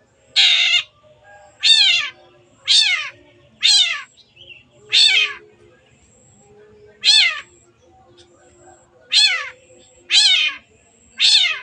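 Long-tailed shrike (cendet) calling: one harsh, noisy call near the start, then a series of eight loud calls that each slide steeply down in pitch, spaced one to two seconds apart.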